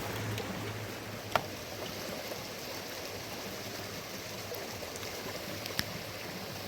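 Steady rushing hiss of water, with two sharp taps, one about a second and a half in and one near the end.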